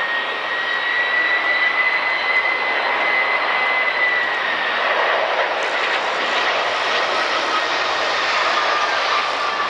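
Jet airliner's turbofan engines running loud and steady, with a high whine that drifts down in pitch from about four seconds in as the aircraft passes.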